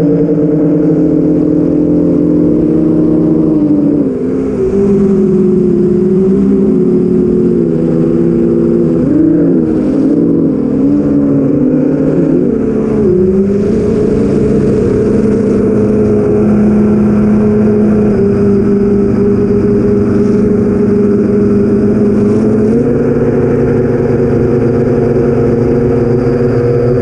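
Four brushless motors of an 8-inch FPV quadcopter (BrotherHobby Avenger 2812 1115kv with Master Airscrew 8045 props) humming in flight, heard from the onboard camera. The pitch wavers and swoops with throttle changes for several seconds, then holds steady, stepping up slightly near the end.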